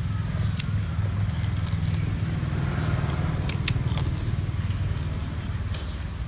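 Close-up eating sounds: chewing on soft rice cakes, heard as scattered short clicks and smacks, over a steady low rumble.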